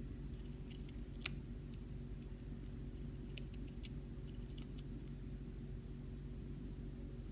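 A hamster nibbling cabbage: small, crisp clicks now and then, a sharper one about a second in and a cluster around the middle, over a steady low hum.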